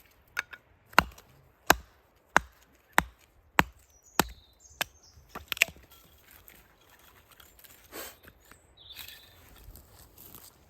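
Wood being chopped: about nine sharp strikes, the first six in an even rhythm a little over half a second apart, then a few more spaced unevenly before they stop about halfway through.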